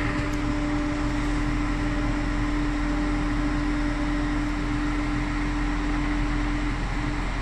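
Large farm tractor's engine running steadily, heard from inside its closed cab together with the cab's air-conditioning fan, a constant hum over an even rushing noise.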